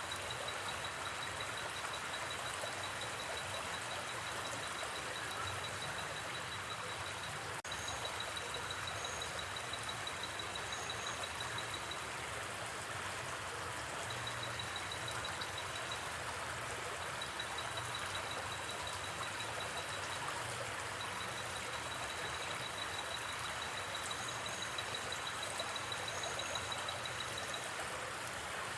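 Steady rushing of a gently flowing river, with a high, rapidly pulsing insect trill that comes and goes in long stretches and a few faint high chirps.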